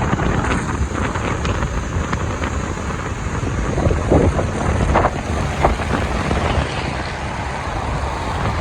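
Wind buffeting the microphone on a moving motorbike, a loud steady rush with road and vehicle noise underneath and a few short bumps.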